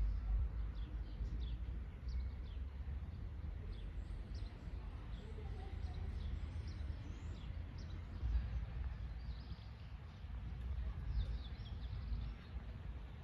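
Small birds chirping in short, high calls over a steady low rumble of outdoor background noise.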